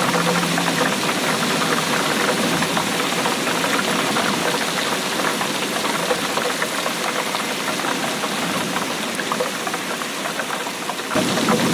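Steady rainfall, a dense patter of many drops. Near the end the sound changes abruptly and a fuller, lower rumble comes in.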